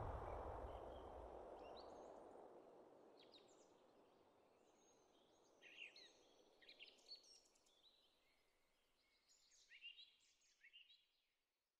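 The tail of a deep rushing swell fades out over the first two or three seconds. Then faint bird chirps, short falling notes in small clusters, come about halfway through and again near the end.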